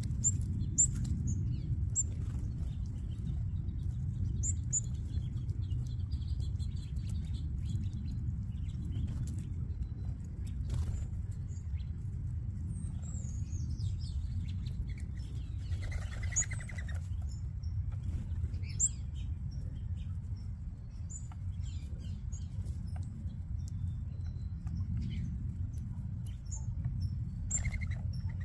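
Small birds chirping at a backyard feeding spot: short, high, scattered chirps and faint pecking clicks over a steady low rumble.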